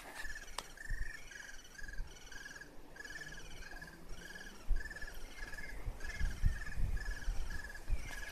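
Little birds in a tree nest calling in a steady run of short, high chirps, about two a second. Low rumbling underneath in the second half.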